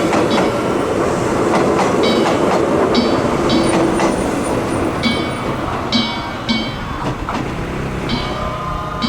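A Mizuma Railway electric train passing close by, its wheels clattering over the rail joints. Over it, the danjiri float's small gongs and drum keep up a repeating pattern of ringing metallic strikes.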